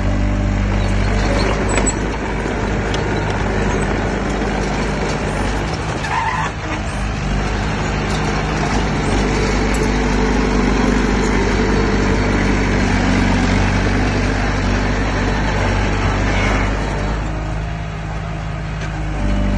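Heavy diesel engine of earth-moving equipment running steadily under load, with a brief dip about six seconds in and a quieter stretch near the end before it picks up again.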